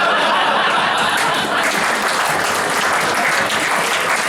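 Live audience applauding, steady clapping with some cheering mixed in.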